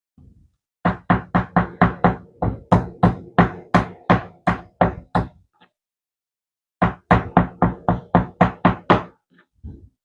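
Chicken breast being pounded thin on a cutting board: sharp, even knocks about four a second, in two runs with a pause of about a second between them.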